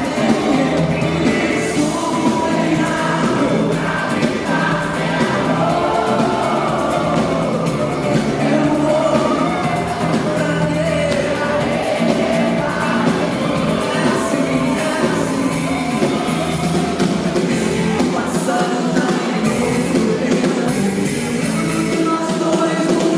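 Live band music with a woman singing, the audience possibly singing along, recorded from the crowd at a concert.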